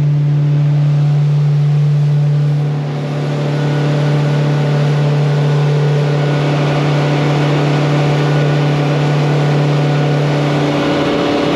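Small boat's outboard motor running steadily at cruising speed, a constant low hum with water and hull noise over it, easing off slightly near the end.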